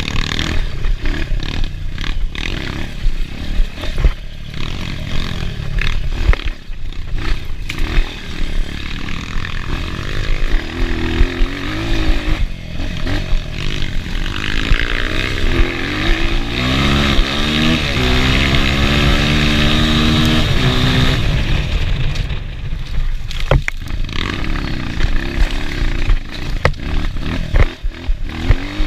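Enduro motorcycle engine running hard, with the revs rising and held high for several seconds around the middle, then dropping back. Frequent knocks and rattles run through it.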